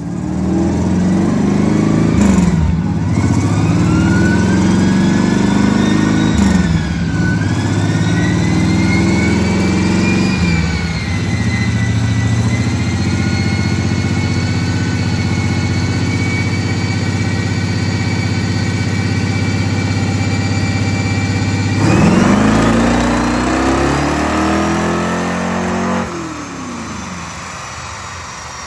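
A 1969 Pontiac Firebird's engine on a chassis dyno pull. It revs up through the gears, the pitch falling back at three shifts in the first eleven seconds, then holds a steady high speed for about ten seconds. It surges again after about twenty seconds and backs off near the end.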